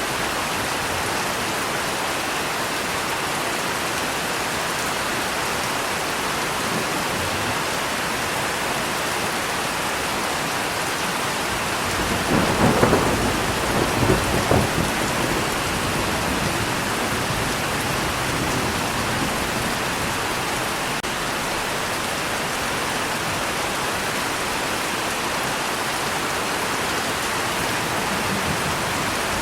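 Steady heavy rain, with a rumble of thunder about halfway through that swells for three seconds or so in two peaks and fades back into the rain.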